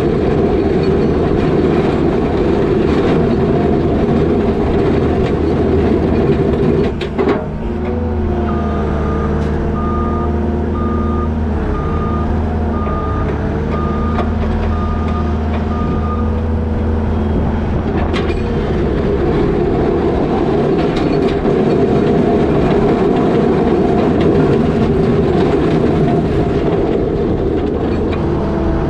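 New Holland L220 skid steer's diesel engine running steadily under load while plowing snow. A sharp clunk comes about a quarter of the way in. After it the reverse alarm beeps about eight times, roughly once a second, as the machine backs up.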